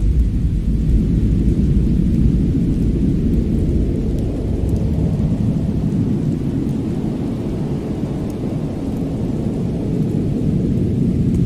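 Steady low rumbling ambience of a fireplace fire mixed with winter wind, with a few faint crackles now and then.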